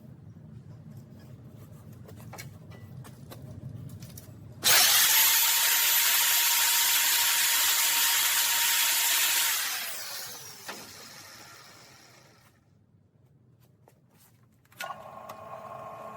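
A power tool runs at steady speed for about five seconds, a loud hiss with a steady whine, then is released and winds down with a falling whine. Near the end another steady machine hum starts.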